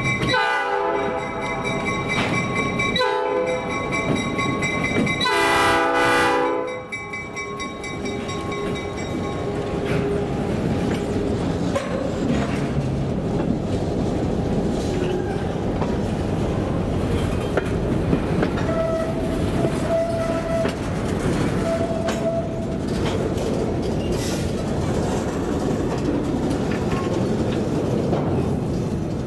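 Horn on Reading & Northern GP38-2 No. 2013, a high-hood locomotive, sounded in three blasts: one ending about half a second in, a short one around three seconds in, and a longer one from about five to seven seconds. Then the train of covered hoppers rolls steadily past, wheels clicking over the rail joints.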